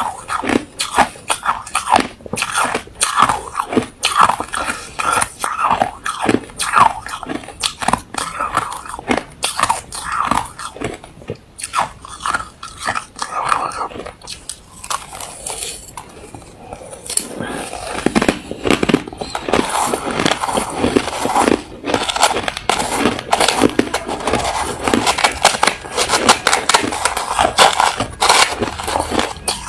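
A person biting and chewing refrozen crushed ice close to the microphone: a rapid run of hard crunches. The crunching thins out for a few seconds in the middle, then becomes denser and more continuous in the second half.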